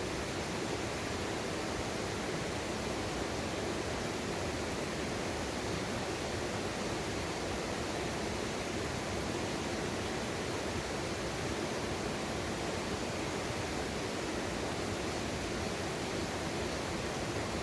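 Mountain valley stream rushing over rocks: a steady, even wash of water noise.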